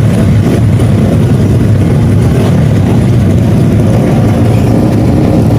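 Loud, steady low engine noise from tuned 155cc automatic scooters running at a drag race.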